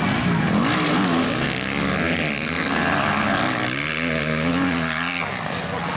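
Motocross bike engines revving as they race, their pitch rising and falling with throttle and gear changes; the engine sound changes abruptly about five seconds in.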